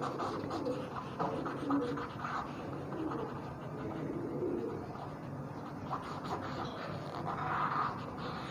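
Low-pitched bird calls repeating several times in the background, over soft scratching strokes of a cotton bud rubbing charcoal shading on paper.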